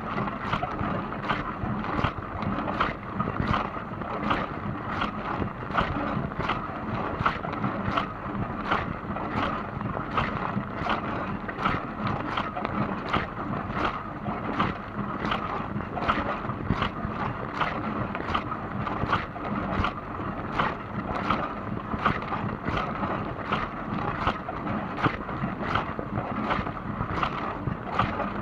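Dishwasher running a wash cycle: a steady rush of spraying water inside the tub, with a regular swish about twice a second.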